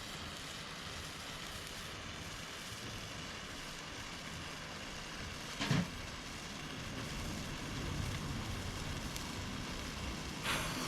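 Handheld fireworks burning with a steady hiss, a short knock about halfway through, and a louder, brighter hiss near the end as a fresh one flares up.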